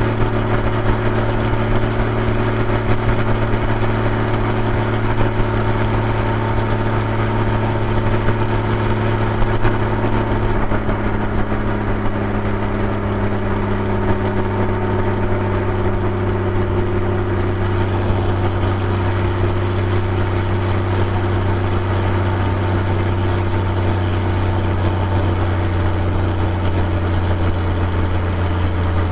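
Porsche 981 Boxster's 2.7-litre flat-six engine and exhaust running at a steady engine speed: a constant low drone that eases slightly lower in pitch about halfway through.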